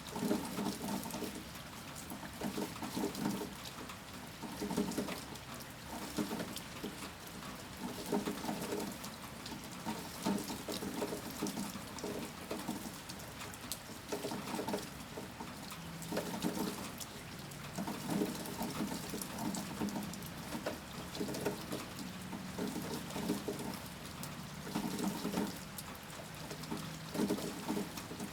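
Steady rain falling, with heavier drops and drips splashing in irregular clusters every second or two.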